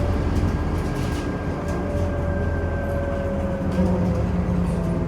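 Scania OmniCity city bus running, heard from on board: a steady low engine drone with a thin whine that falls slightly in pitch about two to four seconds in.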